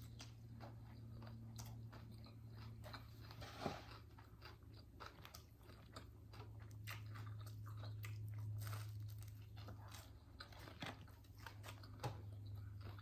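Close-miked chewing and mouth sounds of someone eating a meal: many small wet clicks and smacks, one a little louder about four seconds in, over a faint steady low hum.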